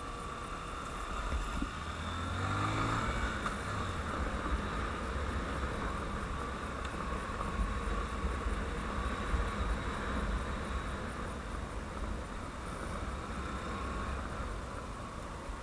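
Honda CBF 150's single-cylinder engine running while riding, with a steady low rumble; its pitch falls briefly about two to three seconds in as it slows.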